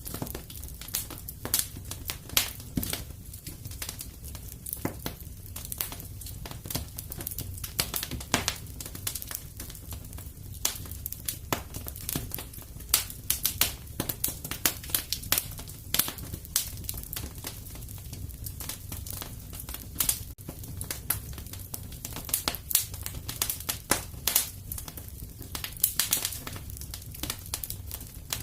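Wood fire crackling in a fireplace: frequent, irregular sharp pops and snaps over a low steady rumble.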